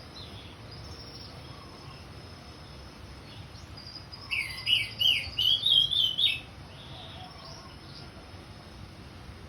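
Orange-headed thrush singing one loud phrase of quick, varied whistled notes lasting about two seconds, near the middle, over a faint steady background hiss.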